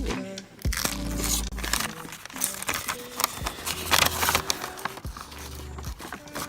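Packaging being torn open and crinkled by hand: repeated sharp rustles and rips of paper or plastic wrapping, over background music with a deep, pulsing beat.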